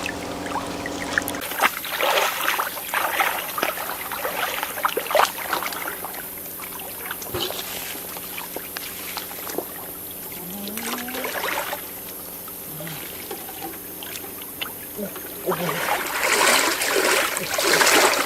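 Water splashing and trickling in irregular bursts, with quieter stretches between.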